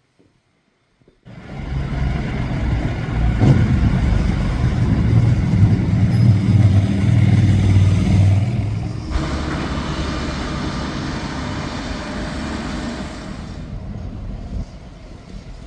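Motorcycle engines running loudly on the road, cutting in suddenly about a second in with a deep engine note. About halfway through the sound changes to a smoother, hissier passing noise that fades near the end.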